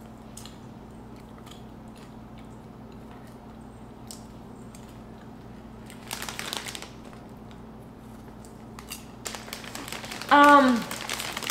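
Popcorn being chewed with faint, scattered crunches, then a plastic snack bag crinkling loudly as a hand reaches into it near the end, with a short falling 'mm' hum over the crinkling.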